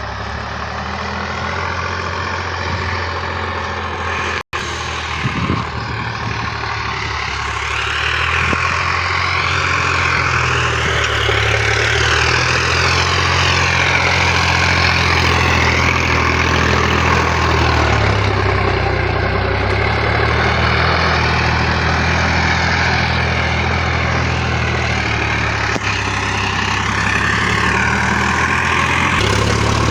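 Sonalika tractor's diesel engine running steadily, with a brief dropout about four and a half seconds in, then growing a little louder from about eight seconds in.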